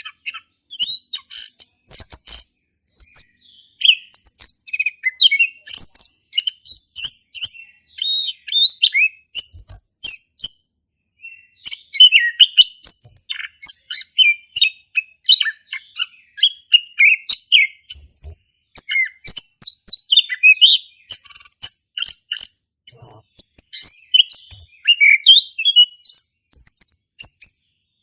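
Male chestnut-capped thrush (anis kembang) singing continuously, a long run of rapid, varied chirps and whistled phrases, broken once by a short pause about ten seconds in.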